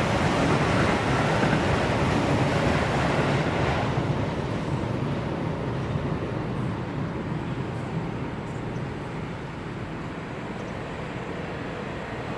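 An electric train running past, its rolling noise loud at first, then dulling about four seconds in and fading slowly as it draws away.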